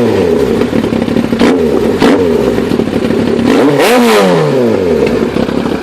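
2000 Yamaha R1's carbureted inline-four running through an aftermarket Coffman exhaust, idling and being blipped with the throttle. There are short revs about a second and a half and two seconds in, and a bigger rev near four seconds that climbs and falls back to idle.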